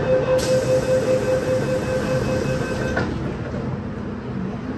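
Inside an MTR M-Train carriage: a rapid pulsing electronic warning tone, typical of the door-closing alarm, sounds over the train's rumble and stops abruptly about three seconds in with a click.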